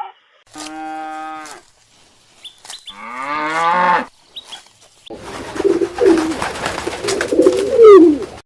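Animal calls in turn: a short steady call, then one that bends down and back up in pitch, then a longer wavering call over a noisy background, loudest near the end.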